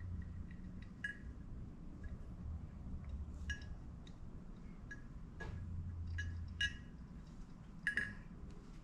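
Small metal carburetor parts clinking and clicking as they are handled and sorted, in scattered taps with the sharpest near the end. A low hum comes and goes underneath.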